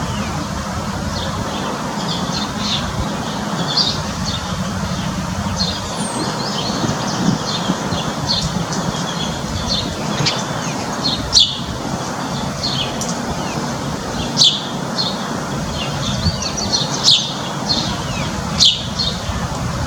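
Backyard birds chirping and calling: many short, high chirps throughout, with a few louder, sharp calls in the second half, over a steady low background noise.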